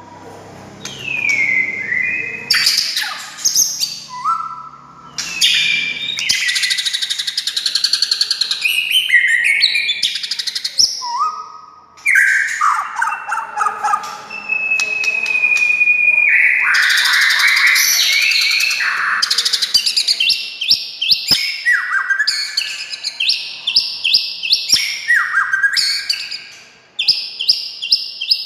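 White-rumped shama (murai batu) singing a long, varied song: loud whistles, rapid trills and sweeping notes in quick succession, with a brief pause near the end.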